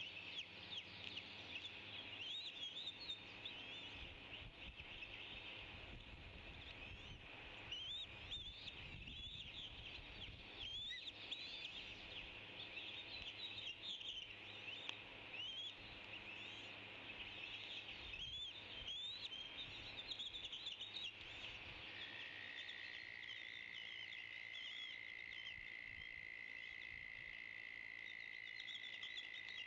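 A flock of small birds chirping and twittering, many short calls overlapping continuously. About three-quarters of the way through, a steady high tone comes in and holds.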